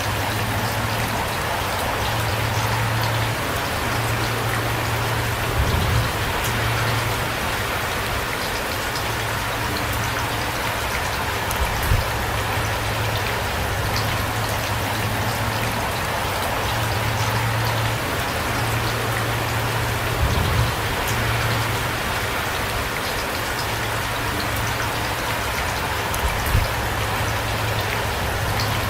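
Heavy rain falling steadily, an even hiss of drops with a low rumble beneath. A few brief, dull low thuds come at irregular intervals, four times.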